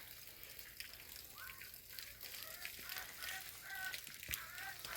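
Domestic fowl calling: a string of short pitched calls, about half a dozen, over a faint steady hiss.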